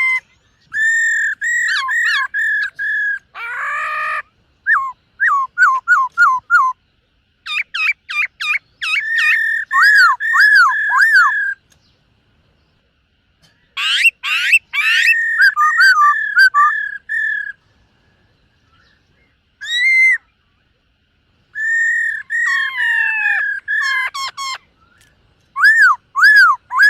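Black-throated laughingthrush singing: loud whistled phrases of quickly repeated clear notes, in bursts broken by short pauses, with one harsh rasping note about three and a half seconds in.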